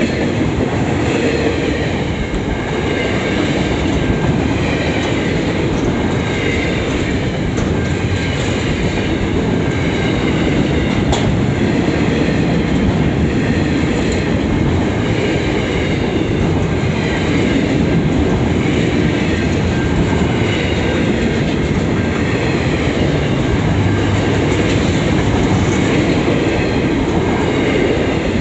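Freight wagons of an SCT Logistics intermodal train rolling past close by: a steady, loud noise of steel wheels running over the rails, with faint repeating clatter.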